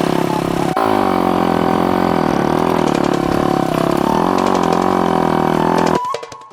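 Motorcycle engine running at idle, its pitch rising and falling slightly; it cuts off abruptly near the end.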